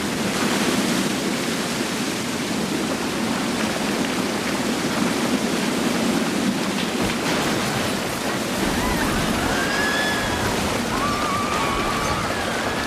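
Steady loud rush of a mudflow, fast-moving water and loose volcanic debris. Faint high wavering sounds come in over it in the last few seconds.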